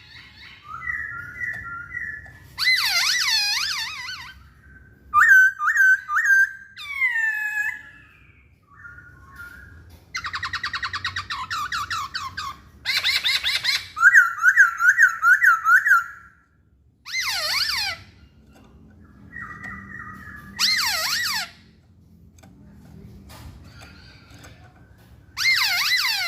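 Masked laughingthrush (poksay hongkong) singing: a varied run of whistled phrases, rapid trills and sweeping notes, each lasting a second or two, with short pauses between them.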